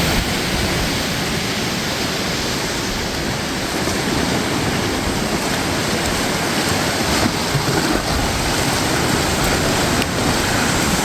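Ocean surf breaking and washing on the shore, a steady rush of water.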